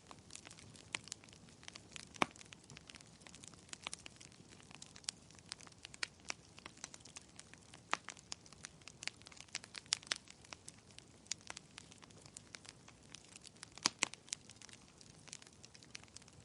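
Wood fire crackling in a fireplace: a constant run of irregular sharp pops and snaps over a low hiss, with a few louder pops about two seconds in and near fourteen seconds.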